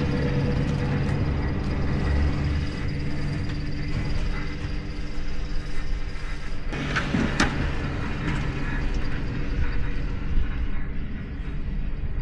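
An engine running steadily while snow is being cleared. About two-thirds of the way through its sound changes and drops back, with a couple of sharp knocks or scrapes.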